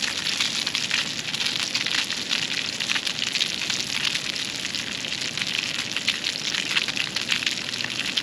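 Steady crackling sizzle of fish cooking in a pan over a campfire, with a dense patter of fine pops.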